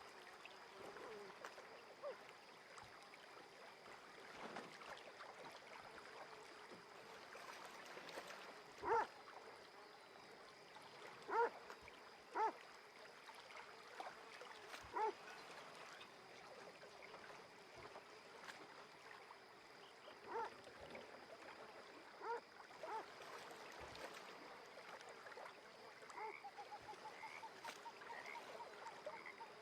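Lakeside ambience: scattered short animal calls over a faint steady hiss of water and a thin high steady tone. Near the end a rapid run of frog croaks starts, about eight pulses a second.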